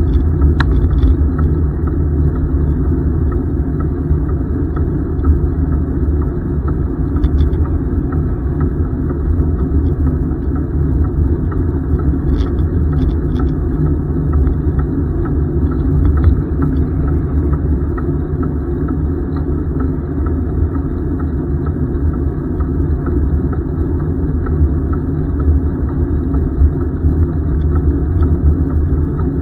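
Steady low rumble of wind buffeting the microphone of a camera riding on a moving bicycle, with a few faint ticks.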